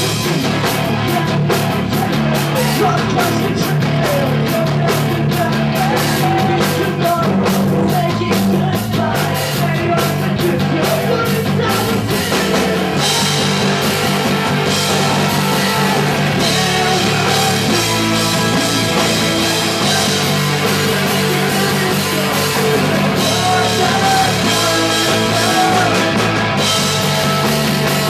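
Punk rock band playing live and loud: drum kit and amplified instruments, with singing.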